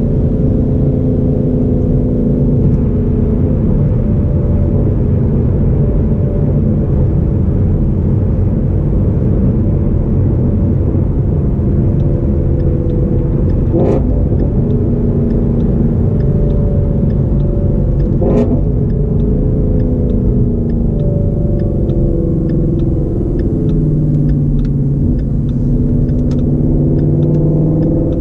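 Inside the cabin of a 2017 Shelby GT350 cruising at highway speed: the 5.2-litre flat-plane-crank V8 holds a steady drone over road noise. Its pitch dips and rises a little in the last third. Two short knocks come about halfway through, a few seconds apart.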